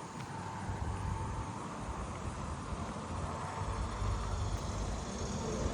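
Low rumble of road traffic, growing toward the end, under a faint steady high-pitched insect chorus of katydids and crickets.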